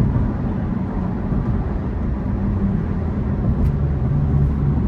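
Steady road and tyre rumble heard inside the cabin of a moving 2020 Tesla Model 3 Performance, an electric car with no engine note.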